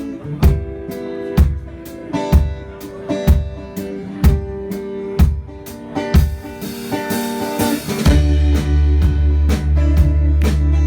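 Live rock band playing a song's instrumental intro: guitar chords over a steady beat struck about once a second. A cymbal swell builds, and about eight seconds in the full band comes in with heavy bass.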